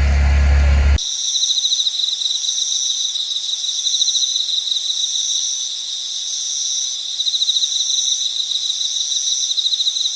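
A chorus of insects trilling steadily at a high pitch, several overlapping trills, one with a fast pulse. It is preceded by a low hum that cuts off abruptly about a second in.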